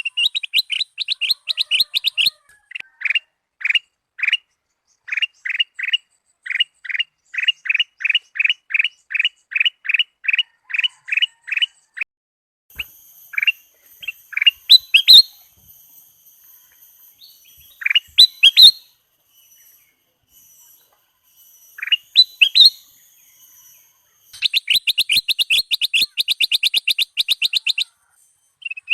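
Kutilang emas (ruby-throated bulbul) singing: runs of short, clear repeated notes, rapid at first, then a steadier series of about two or three notes a second, a sparser stretch of upward-sweeping notes in the middle, and a fast rapid run again near the end. A faint steady high hiss sits under the middle part.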